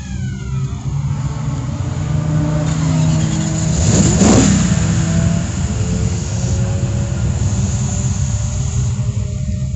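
Racing car engines running, with changing engine pitches; the sound swells to its loudest about four seconds in, then eases off.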